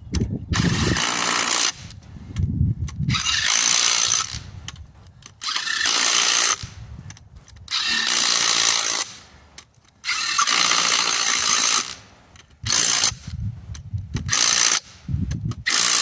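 A power tool run in repeated bursts of one to two seconds, spinning lug nuts onto a car's wheel as the wheel is refitted.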